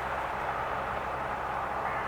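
Large ferry's engines running with a steady low hum under an even rushing noise.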